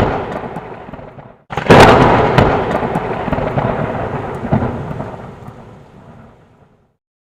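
Thunder: the tail of one clap fades over the first second, then a sharp thunderclap about a second and a half in rumbles and dies away over about five seconds.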